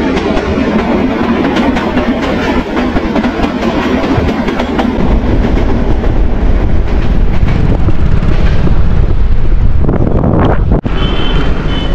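Passenger train running past on the track beside the road, its coaches clattering on the rails, mixed with wind rumble on the microphone of a moving bicycle.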